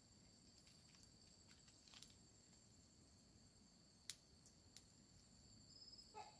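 Faint, steady high-pitched chirring of crickets or other night insects, broken by a few sharp clicks, the loudest about four seconds in.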